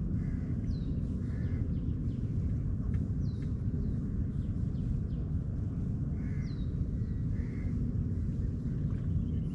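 Birds calling outdoors: short falling chirps and short, harsher calls, some in pairs, repeated every second or two over a steady low rumble.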